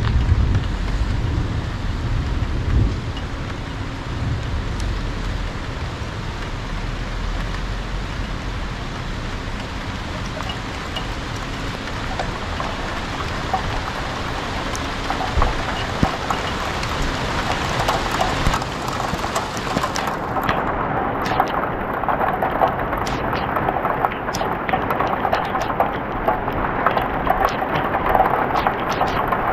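Rain falling in a thunderstorm, building from a steady patter to heavier rain with many sharp drop taps in the second half. A low rumble of thunder fades out over the first few seconds.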